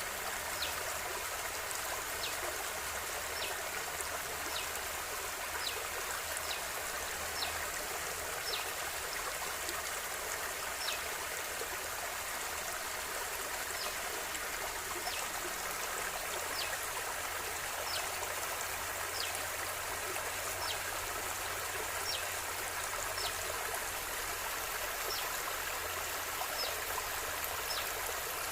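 River water flowing steadily, an even rushing with a light trickle in it. Over it, a series of short high falling chirps comes about once a second, with a pause of a few seconds partway through.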